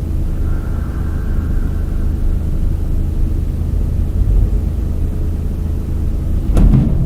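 Steady low rumble of a running vehicle engine, with one sudden sharp knock near the end.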